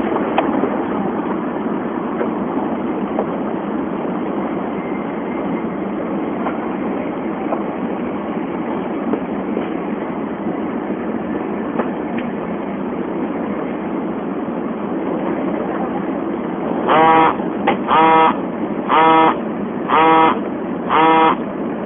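Tokaido Shinkansen running at speed, heard from inside the cabin as a steady rushing noise. Near the end, five short pitched tones sound about once a second over it.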